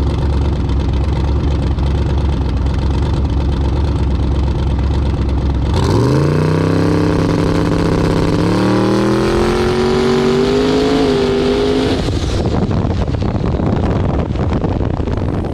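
A drag car's engine idling, then launching about six seconds in and accelerating hard, its pitch rising, dipping at a gear change and rising again. The engine note breaks off around twelve seconds in, leaving a rougher, noisier run.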